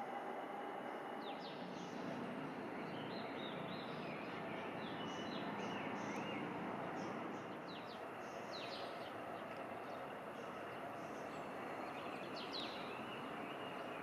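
Birds chirping in short, quick calls over a steady background hiss.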